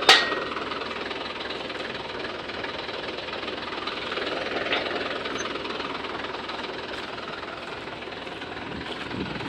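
Tractor engine running steadily under a harrow working the field, with two sharp clicks, one at the start and one about halfway through.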